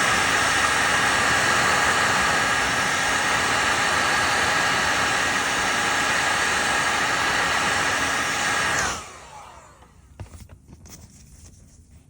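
Heat gun blowing steadily with a whine, switched off about nine seconds in, its fan winding down in pitch. A few faint taps follow.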